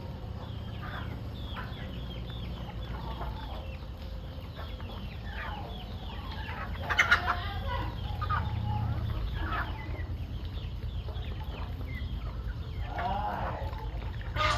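A flock of chickens clucking, with many short calls overlapping and one louder call about halfway through, over a steady low rumble.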